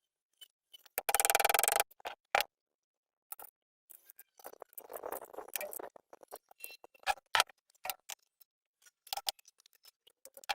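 Scattered clicks and knocks of tools and metal parts being handled during work on a portable generator's engine, with a burst of rapid clicking just under a second long about a second in and a softer rustle midway.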